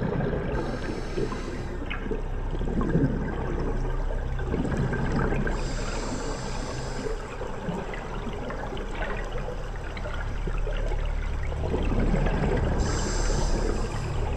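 Scuba diver breathing through a regulator underwater: a high hiss of air on each inhale, three times at about six-second intervals, with bubbling and gurgling from the exhalations in between.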